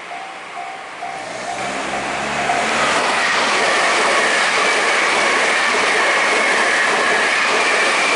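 An electric train passing close by: a loud, even rush of wheels and running gear that builds from about a second and a half in and then holds steady. For the first couple of seconds, a level-crossing bell dings about twice a second, then fades under the train.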